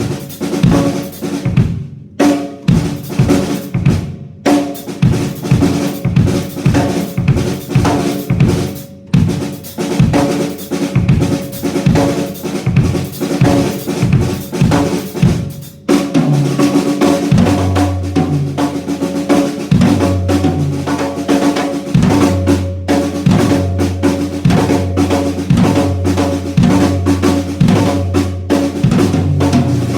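Acoustic drum kit played in a steady groove of bass drum, snare and cymbal hits, picked up and processed by a Yamaha EAD10 drum module. From about halfway a deep, sustained low boom runs under the beat.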